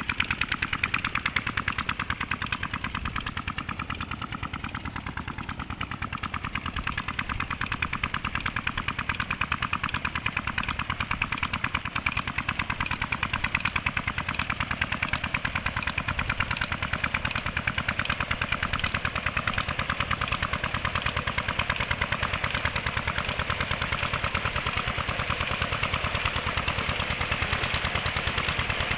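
16-horsepower Petter diesel engine driving a tube-well water pump, running steadily at low speed with an even, rapid stream of sharp exhaust beats.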